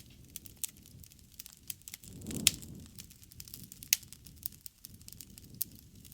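Wood campfire crackling: irregular snaps and pops over a faint low rustle of flame, with a loud pop about two and a half seconds in and another sharp one near four seconds.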